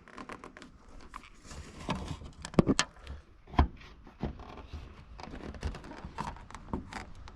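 Irregular clicks, knocks and scrapes of the unbolted plastic snowflap and bumper being handled against a snowmobile's tunnel. A few sharper knocks come a little before the middle.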